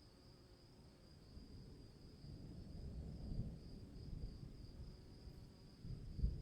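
Crickets trilling in a steady, unbroken high chorus, over a low rumble that swells up about a second and a half in and peaks briefly twice.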